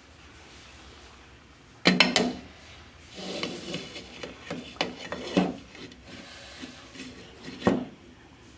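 A cooking utensil knocks sharply against a pan, then scrapes and stirs food in it with small knocks, and knocks once more near the end.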